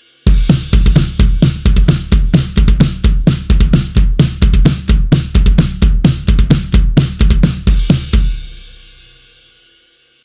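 Sampled rock drum kit from the Blasting Room Signature Series Drums Kontakt library playing a fast groove of kick, snare, hi-hat and cymbals for about eight seconds, then stopping and ringing out to silence.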